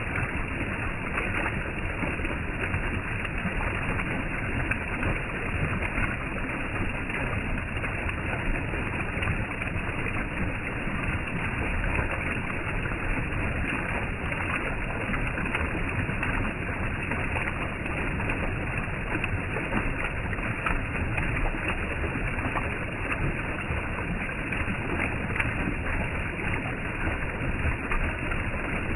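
Waterfall: falling water rushing at a steady level.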